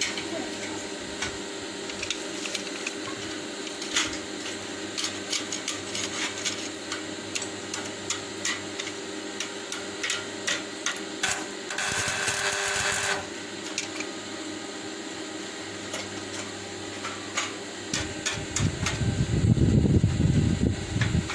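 Irregular clicks and taps of hand tools at work over a steady hum, with a brief harsh whirring burst about halfway through and a low rumble near the end.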